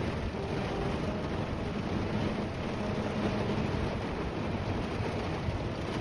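Steady rain of a thunderstorm drumming on the roof of a jeep camper, heard from inside, with a continuous low rumble underneath.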